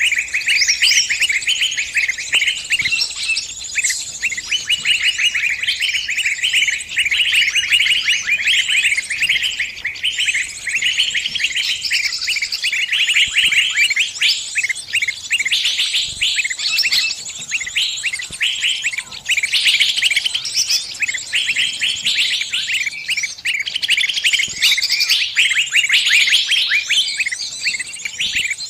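Small bird's distress calls: a trapped, pinched bird crying out in rapid, unbroken high chirps.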